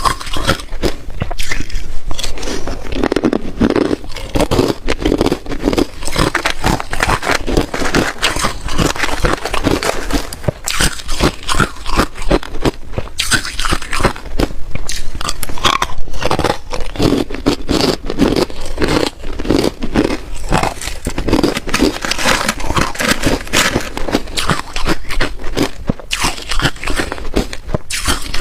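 A person biting and chewing ice: a continuous run of rapid, loud crunches and cracks as the ice breaks between the teeth.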